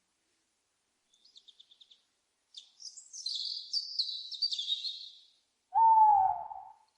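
Owl calls: a quick run of high chirps, then a harsh, high screech lasting about two and a half seconds, then one loud hoot about a second long near the end, falling slightly in pitch.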